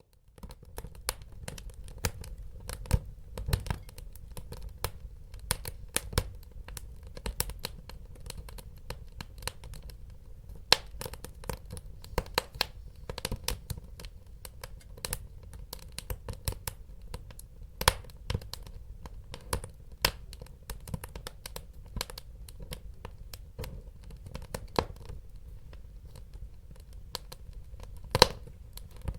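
Wood fire crackling: irregular sharp pops and snaps, several a second, over a low steady rumble of burning. One louder pop comes near the end.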